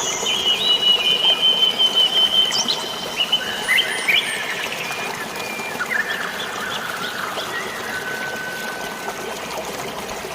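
Steady rush of flowing water with birds chirping and whistling over it. A long held whistle runs through the first few seconds, and a lower held note comes near the end.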